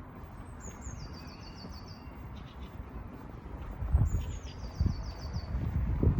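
A songbird sings two short phrases about four seconds apart. Each is a quick run of high, evenly repeated notes stepping down in pitch. Beneath them is a steady low rumble of city background that gets louder in the second half.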